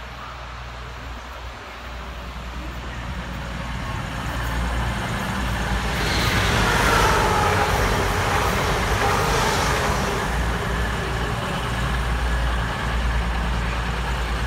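EMR InterCity diesel passenger train passing close by on the near line. Its engine hum and wheel-on-rail noise build from about two seconds in and are loudest around seven seconds. A whining rush of wheels and rails comes as the coaches go by.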